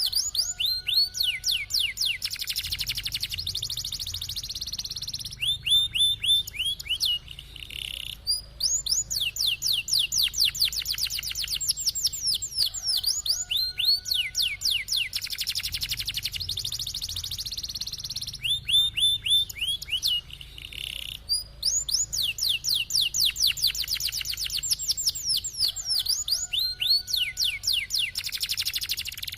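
Domestic canary singing continuously: long rolling trills of rapid, high falling notes broken by short pauses. The same run of phrases comes round again about every 13 seconds.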